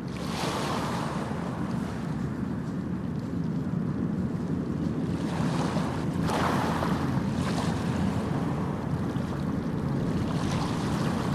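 Wind rushing and buffeting the microphone, a steady low rumble with three gusts that swell and fade.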